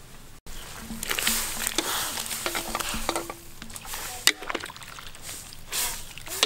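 Squid pieces sizzling in a hot wok, stirred with a wooden spatula that scrapes and knocks against the metal.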